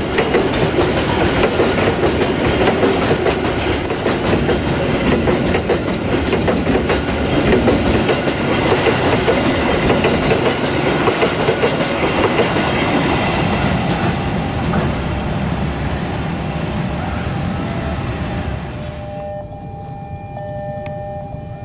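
Container freight train's flat wagons rolling past, steel wheels clacking over the rail joints. About 19 seconds in, this gives way to a level-crossing warning alarm sounding two steady tones.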